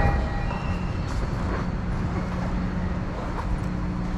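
Keio commuter train standing at an underground subway platform with its doors open: a steady low hum from the train under the station's background rumble, with a few faint clicks.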